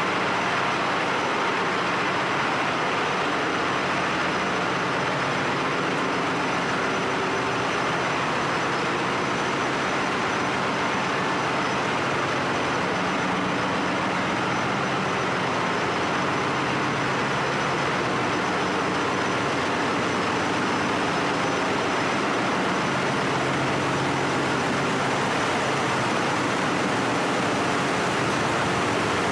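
Ship's engine-room machinery running steadily: a loud, even noise with a faint high whine over it.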